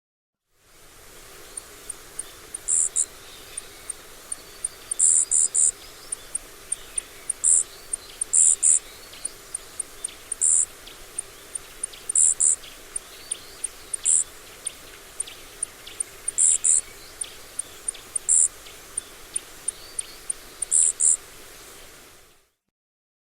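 Small bird calling: a steady run of very high, thin ticks, a few a second, broken by louder short chirps in pairs and threes, over a faint steady hiss. The recording cuts in and cuts off abruptly.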